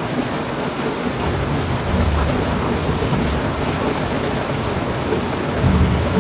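Heavy rain falling steadily in a dense, even hiss, with brief low rumbles about two seconds in and again near the end.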